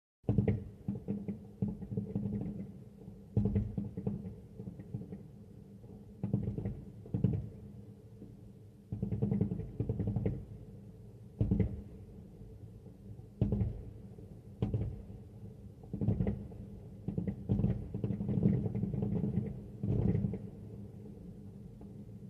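Fireworks bursting overhead in an uneven string of low booms, one every second or two, each trailing off in a rumble.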